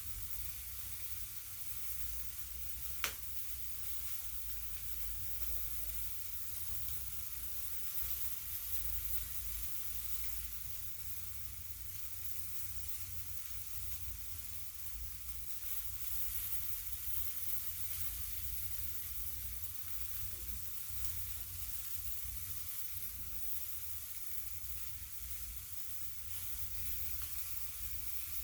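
Quail sizzling steadily on a charcoal grill, a constant hiss with faint crackles over a low hum. One sharp click about three seconds in.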